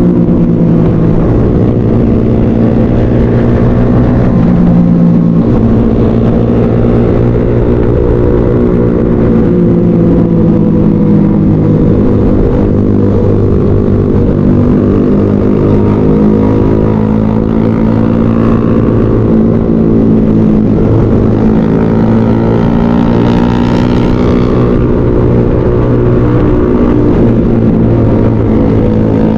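Motorcycle engine running steadily under way on the road, its note rising and falling a little with the throttle.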